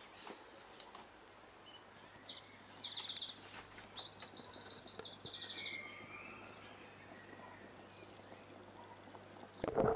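Small birds singing: a run of short high chirps and quick trills for a few seconds, over a faint steady low hum. A louder knocking noise starts right at the end.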